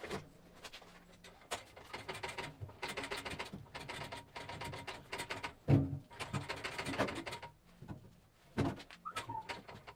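Irregular knocks, clunks and scraping as a Land Rover Series 2a fuel tank and its bolts are handled and worked into place against the chassis outrigger, with one louder thump a little before the 6-second mark.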